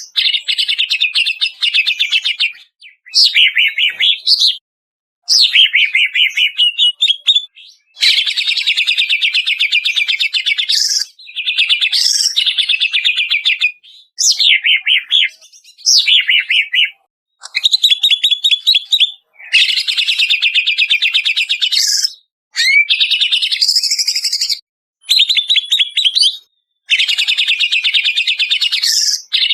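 Cucak ijo (greater green leafbird) singing: a run of loud, rapid trilled phrases a second or two long, broken by short pauses, with gliding whistled notes mixed in. It is a recorded 'masteran' song played to coax caged birds into singing.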